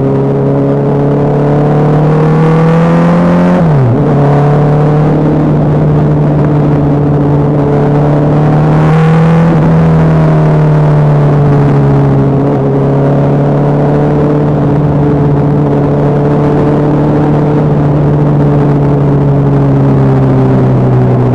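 Honda CBR650F inline-four engine running under way at steady road revs, its pitch rising and falling gently, with a brief sharp dip in pitch about four seconds in.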